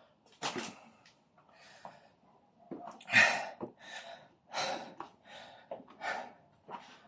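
A person breathing hard in loud, noisy gasps, about eight breaths in seven seconds: winded from a set of burpees.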